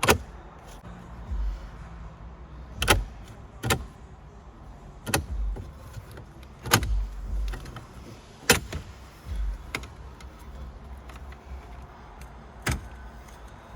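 Hands and tools working on a car's interior: a series of sharp clicks and knocks, about eight, irregularly spaced, with low thuds between them.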